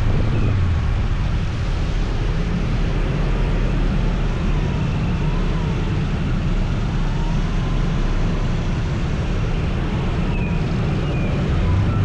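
Scooter on the move: its engine and tyre noise run steadily, mixed with wind on the rider's microphone.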